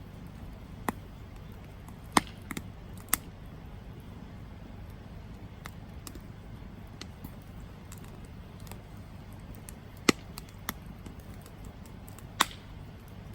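Campfire burning with a low steady rumble and scattered sharp crackles and pops; the loudest snaps come about two and three seconds in, around ten seconds in, and near the end.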